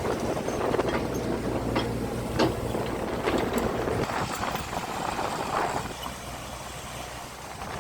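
A low engine hum with scattered knocks and clatter over it; the hum drops away about four seconds in, leaving a quieter noisy background.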